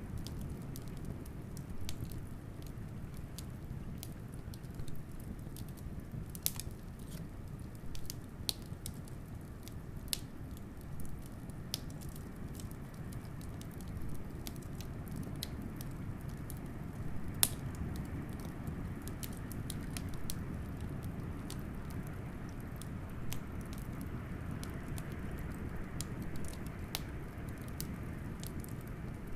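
Wood fire crackling, with irregular sharp pops, a couple of them louder than the rest, over a steady low rush of blizzard wind.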